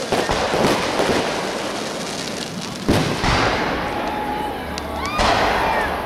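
Fireworks going off: three sharp booms over a steady crackle, with high whistling tones that glide in pitch in the second half.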